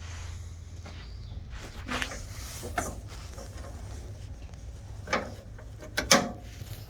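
A handful of short knocks and clanks from hand tools and fittings being worked on the Jeep's rear bumper bolts, spaced a second or more apart, the loudest a quick double knock near the end.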